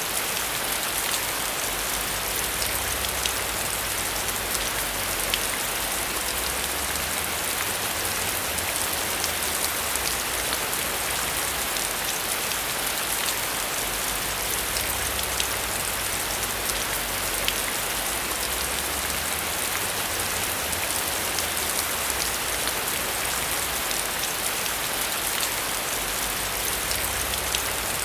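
Heavy rain falling steadily on a metal roof, a dense even hiss with countless sharp drop ticks.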